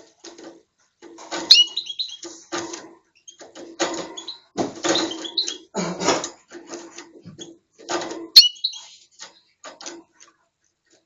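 Canary chirping and calling in short, broken bursts, with two loud sweeping whistled notes, about a second and a half in and again about eight seconds in.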